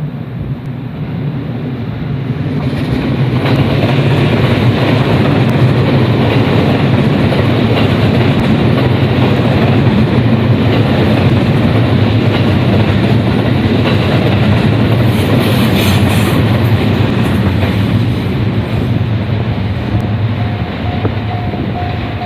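A train passing close by on the line through a level crossing, with wheels clattering on the rails. The noise builds over the first few seconds, holds steady for a long stretch and eases off near the end. A short repeating tone starts near the end.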